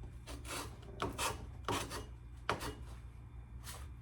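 Abrasive rubbed by hand over the old steel axe head to take off rust, in about six uneven back-and-forth strokes of scratchy rasping.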